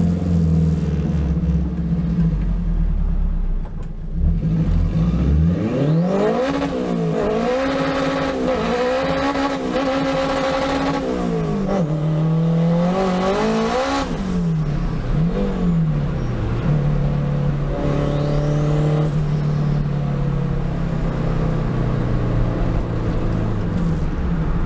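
Turbocharged Honda K20 four-cylinder in an EK Civic race car accelerating hard, its pitch climbing from about five seconds in and stepping through the gears. It peaks and drops sharply as the throttle is lifted around fourteen seconds in, then runs at a steady cruise.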